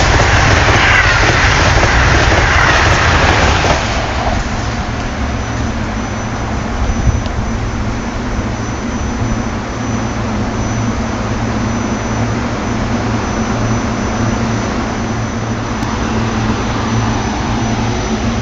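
Amtrak train running at speed: a loud rushing roar of wheels and air that drops sharply about four seconds in, leaving a steady low rumble. No horn is sounding.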